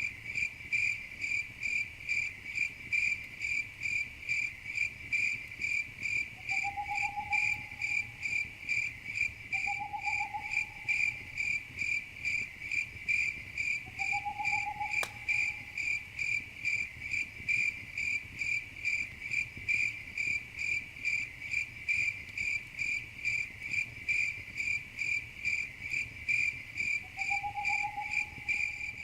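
Crickets chirping in a steady, even rhythm of a few chirps a second. A short, lower rising call sounds four times, and a single sharp crackle comes about halfway through.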